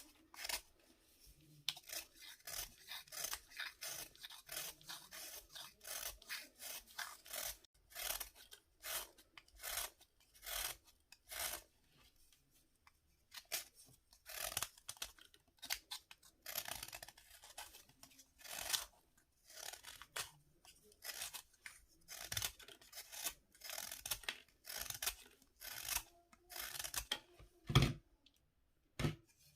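Dry, crumbly bath fizzers being cut and scraped: a long run of short scraping strokes, about one or two a second with brief pauses, and one heavier thump near the end.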